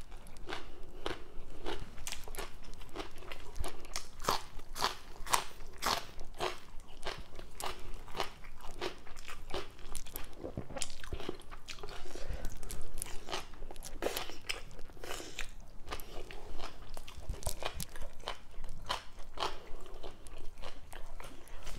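A person chewing mouthfuls of papaya salad with raw vegetables, a steady run of crisp crunches.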